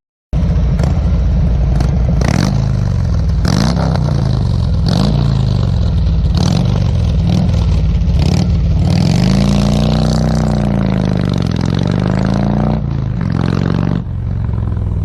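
Harley-Davidson Road King motorcycle engine running hard under acceleration, starting abruptly after a moment of silence, its pitch rising and falling several times, with sharp clatters recurring throughout; it drops back slightly near the end.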